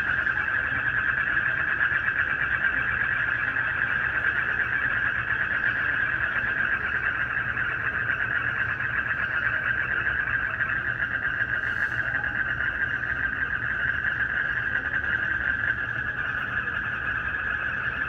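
Dense, steady night chorus of frogs and crickets: countless overlapping rapid trills merging into one continuous high buzz.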